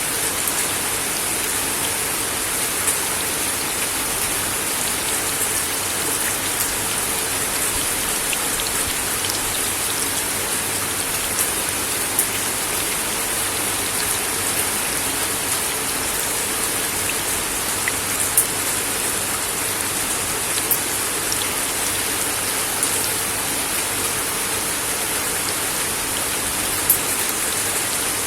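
Steady rain falling on a wooden deck, an even hiss with scattered sharper drip ticks.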